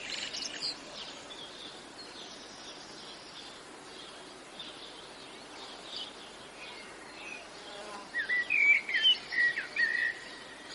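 Birds chirping outdoors: a few quick calls right at the start, then a busier run of chirps over the last few seconds, over a faint steady background hiss.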